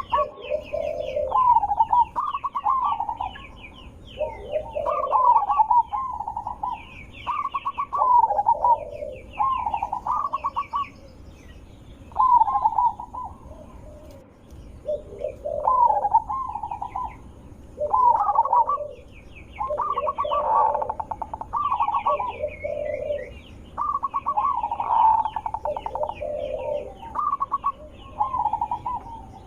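Zebra dove (perkutut) cooing: repeated rolling coo phrases of about a second each, coming every couple of seconds, with fast high-pitched chirping behind them.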